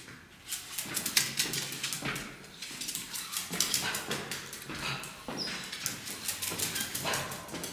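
A dog whimpering and whining, amid many quick clicks and taps.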